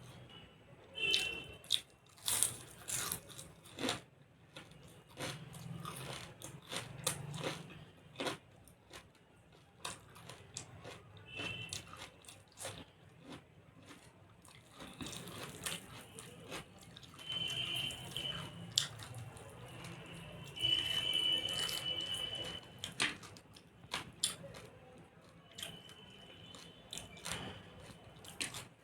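Close-up eating sounds: chewing and biting into fried fish and fried chillies with curry and rice, with irregular sharp crunches and mouth noises.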